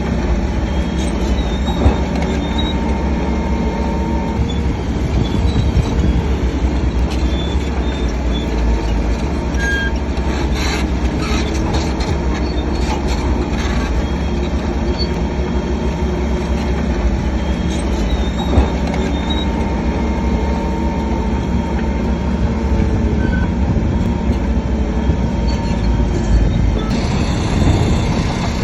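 Heavy diesel earthmoving machinery working steadily, with a continuous low rumble, a few short high metallic squeaks and an occasional knock.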